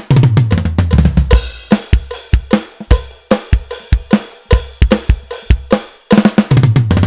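Drum kit played: a fast fill of rapid strokes around the toms, then a steady beat of bass drum and snare under ringing cymbals, and another quick tom fill near the end.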